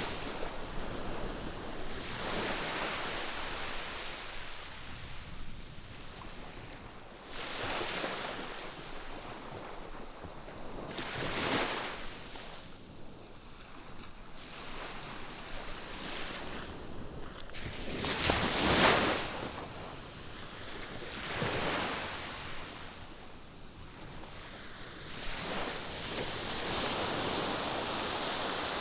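Ocean waves washing onto the shore in a steady rhythm, each one swelling and fading every few seconds. The loudest wave comes about two-thirds of the way through.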